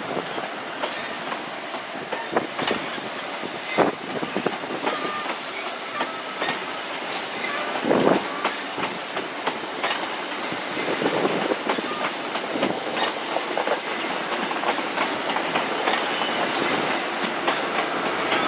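A High Speed Train (InterCity 125) departing, its coaches rolling past with a steady rumble and repeated clicks and knocks of wheels over rail joints and pointwork, growing louder towards the end.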